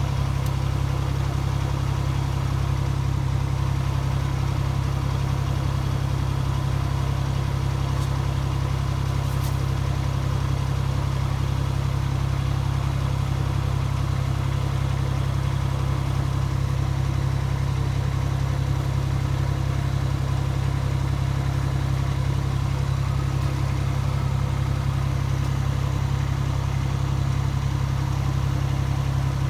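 Miniature railway locomotive's engine idling steadily, a constant low hum with no change in speed.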